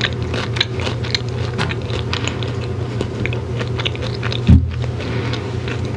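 Close-miked crunching and chewing of a candy bar: many small crisp clicks over a steady low hum, with one loud, low thump about four and a half seconds in.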